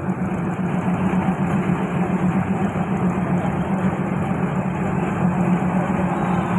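Diesel railcar running with a steady low engine drone and rumble.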